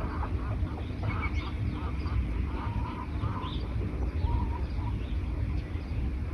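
Several birds calling: many short, repeated notes in quick runs, with a few higher chirps, over a steady low rumble.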